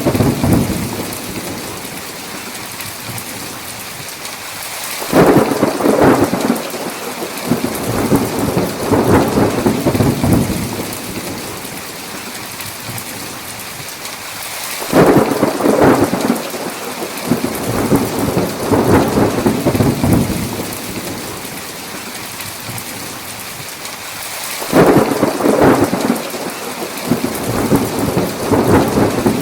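Heavy rain falling steadily, with three rolls of thunder about ten seconds apart, each starting suddenly and rumbling for several seconds; the tail of another rumble fades at the start.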